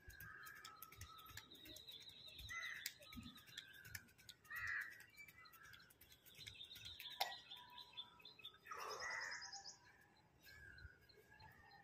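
Birds chirping and calling, faint, with two louder, harsher calls about five and nine seconds in.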